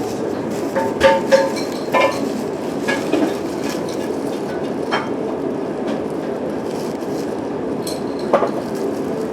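Steady rumble of a moving train heard from inside, with occasional sharp metallic clinks and knocks, a few of them briefly ringing.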